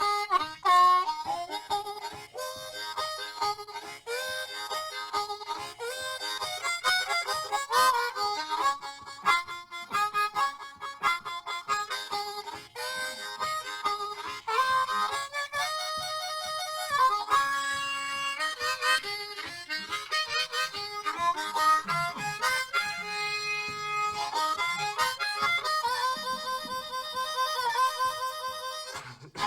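Blues harmonica playing an instrumental break, with bending notes and several long held chords, over a steady rhythmic backing.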